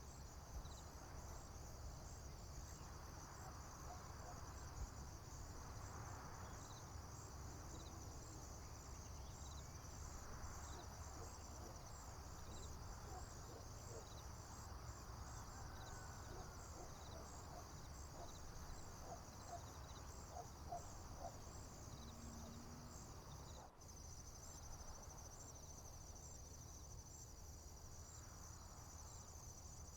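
Crickets chirping in a steady, faint, high-pitched pulsing chorus over a low steady rumble, with a few faint short calls in between. The sound briefly drops out about two-thirds of the way through, and the cricket trill changes after it.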